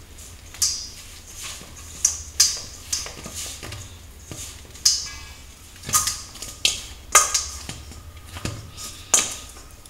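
Hand kneading poori dough in a stainless steel bowl: soft working of the dough with irregular light knocks and taps of the hand against the metal bowl, roughly one every second.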